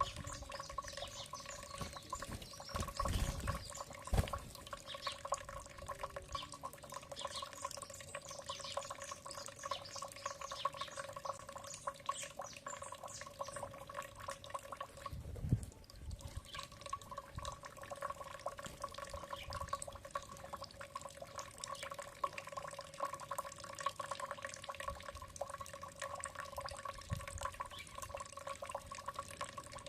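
Dripping, trickling water with many faint short bird chirps and ticks over it, above a steady two-note hum; a few low thumps about three to four seconds in and again about halfway.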